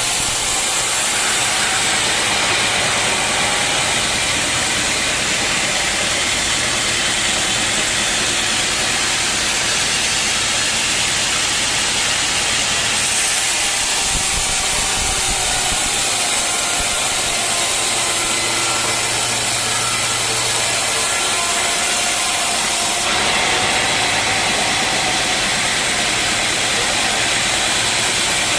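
Sawmill saw cutting through an old teak log: a steady, loud, hissing machine noise whose tone shifts about two seconds in, again near the middle, and again a few seconds before the end.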